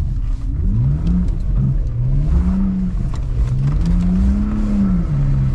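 BMW 128i's 3.0-litre straight-six engine revving up and down four or five times as the rear-wheel-drive car slides in snow, settling to a steadier note near the end.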